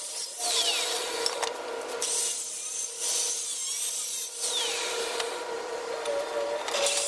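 Rough scraping and rubbing strokes on tile or mortar during tile repair work, coming in uneven repeated passes.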